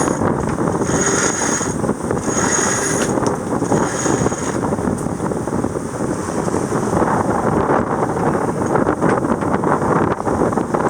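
Wind and rushing water on a sailboat under way, with wind buffeting the microphone. A high electronic beep sounds three times, about a second and a half apart, in the first few seconds.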